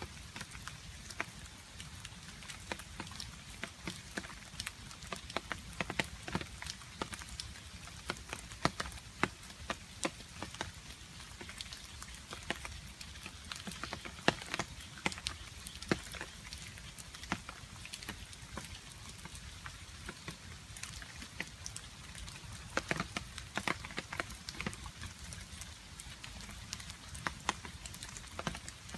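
Rain falling with water dripping: many irregular, sharp drip ticks over a steady hiss of rain.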